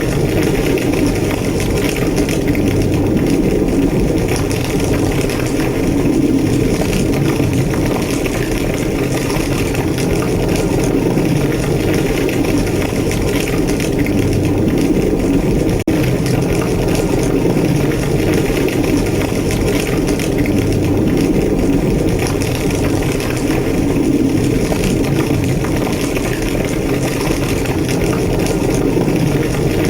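Large blazing fire of a burning structure: a steady, loud low roar with crackling, and one sharper crack about halfway through.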